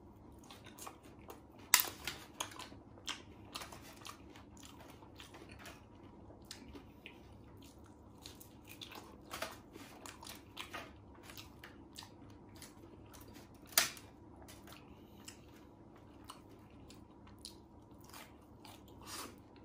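Eating sounds of someone biting into and chewing crispy battered fried mushrooms with cheese: a run of small crunchy clicks, with two sharp, louder crunches, one about two seconds in and one about two-thirds of the way through.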